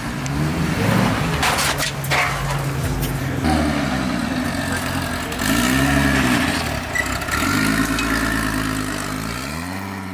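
Car engine revving several times, its pitch climbing and dropping back each time over a steady idle.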